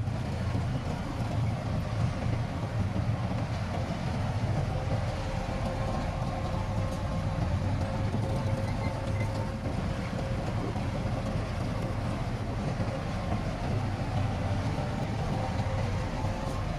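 Heavy diesel earthmoving machinery running steadily: a continuous low engine rumble with a faint steady whine above it.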